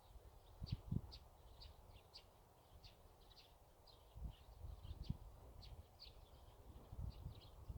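Small birds chirping faintly over and over in quick short notes, with a few dull low thumps about a second in and again around four to five seconds in.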